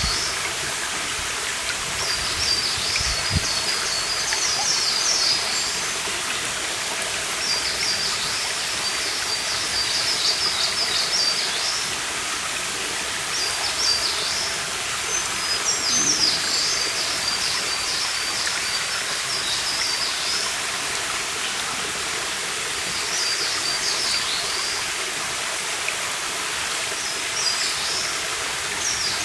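A forest stream running with a steady rush of water, while a small songbird sings high, rapid twittering phrases every few seconds.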